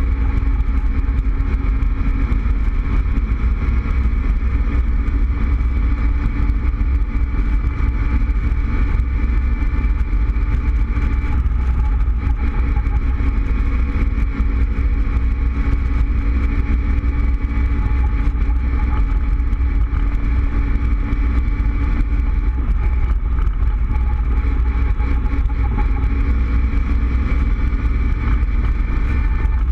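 Cobra roadster's engine running steadily at cruising speed, heard from the open cockpit, with a low wind rumble on the microphone. The engine note shifts a little about twelve seconds in and again later.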